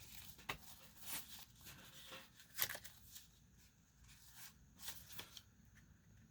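Faint rustling and flicking of paper guest-check slips being handled and leafed through, with a sharper crisp flick about two and a half seconds in.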